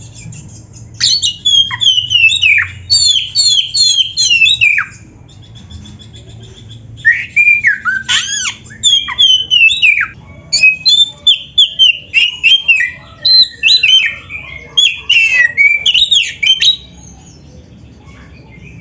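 Oriental magpie-robin (kacer) singing loudly in two bouts of rapid, varied whistled phrases that slide down in pitch, a short pause between them and quiet after the second bout near the end.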